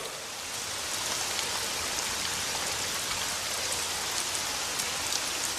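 Steady hiss of rain falling, with faint scattered drop ticks.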